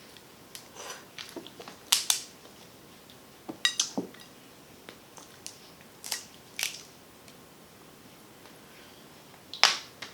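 Snow crab shell being cracked and snapped open by hand: a run of sharp, separate cracks spread through the few seconds, the loudest one near the end.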